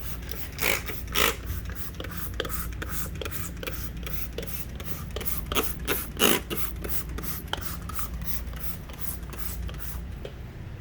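Quick rubbing and scraping strokes of a cloth wiping window glass, about three to four strokes a second, with a few louder scrapes about a second in and again around six seconds, over a steady low hum.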